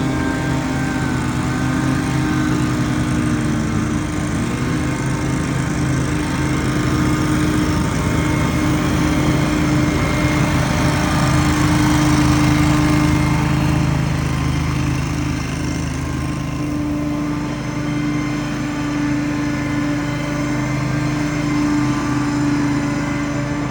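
Small gasoline engine of outdoor power equipment running steadily at high speed, with a steady hum, swelling slightly about halfway through.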